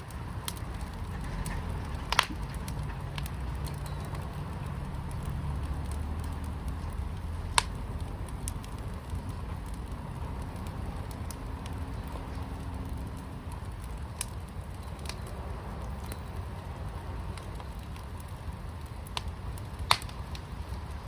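Fire pit burning with a steady low rumble and scattered crackles, with sharper pops about two seconds in, near eight seconds and near the end.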